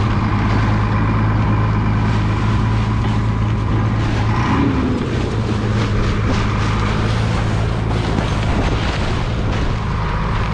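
An engine running steadily at an even speed, with strong wind buffeting the microphone.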